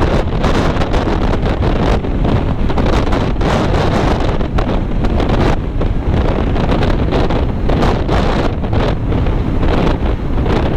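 Heavy wind buffeting the microphone while riding at highway speed, over a steady rush of vehicle and road noise.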